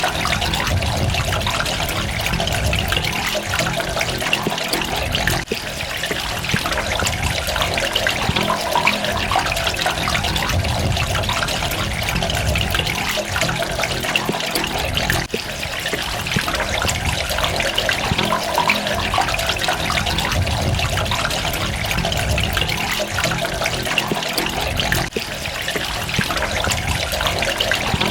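Steady running water, trickling and splashing with many small droplets, with a brief dip in level about every ten seconds.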